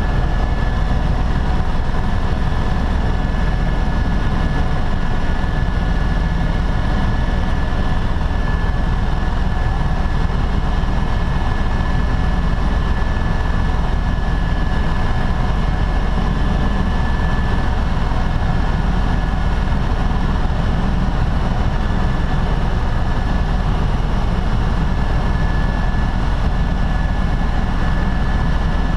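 Helicopter in flight heard from inside the cabin: a steady, loud drone of engine and rotor, with a thin high whine held over it.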